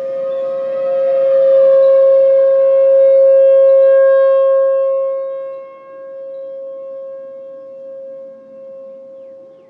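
Outdoor civil-defense warning sirens sounding together: a steady alert tone holds one pitch while a second siren's tone slides downward. The sound swells for the first few seconds, then drops off sharply about halfway through.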